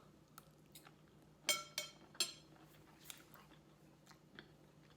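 Faint chewing, broken about a second and a half in by three quick, ringing clinks of a fork against a plate.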